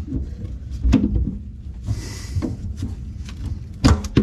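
Knocks and scrapes of hand-tool work inside a sink cabinet on a faucet mounting nut that is binding and won't turn. There is a loud knock about a second in, a short hiss about two seconds in, and a louder pair of knocks near the end.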